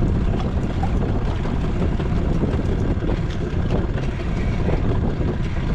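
Strong wind buffeting the microphone, a steady low rumbling noise.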